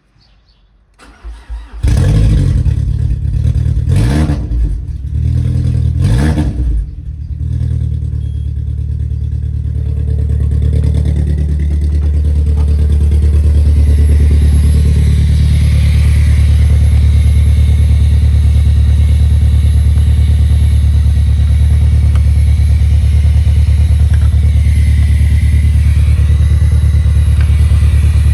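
Peugeot 307's 2.0-litre EW10J4 (RFN) four-cylinder petrol engine starting about a second in and revved a few times. It then settles into a steady idle.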